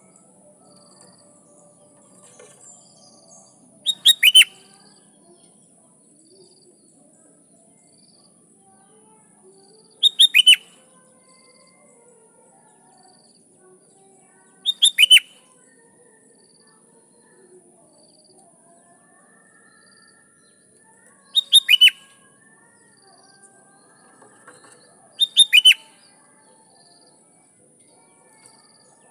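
Sooty-headed bulbul singing: five short, loud phrases of quick whistled notes, each falling in pitch, several seconds apart. Faint chirps from other birds and a steady high hiss run between the phrases.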